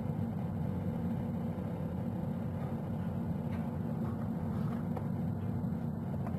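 Steady low rumble of city background noise picked up by a falcon nest-box microphone on a building ledge, with a few faint clicks.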